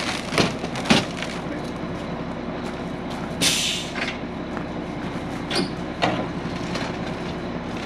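Diesel engine of a concrete mixer truck running steadily. A short hiss of air comes about three and a half seconds in, and there are a few sharp knocks.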